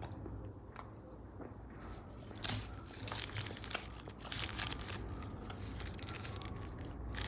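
Gum wrapper crinkling as it is handled, in irregular bursts of crackle, strongest about halfway through.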